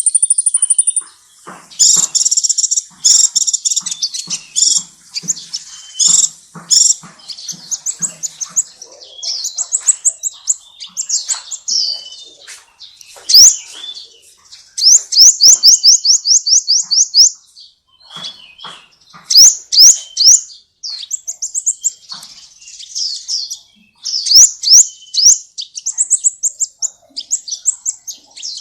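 Songbird singing a loud, fast, varied, high-pitched song. It mixes chattering phrases with rapid trills of rising notes, broken by short pauses.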